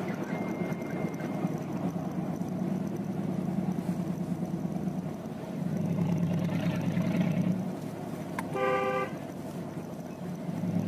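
Mercedes G-Wagon's petrol V8 running under way, heard from inside the cabin with road noise, swelling for a couple of seconds around the middle. A car horn honks once briefly near the end.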